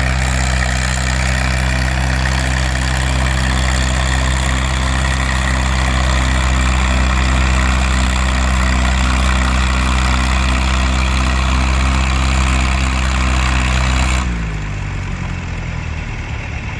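Farm tractor engine running at a steady pitch during a tractor pull. About fourteen seconds in, the throttle is cut and the engine note drops.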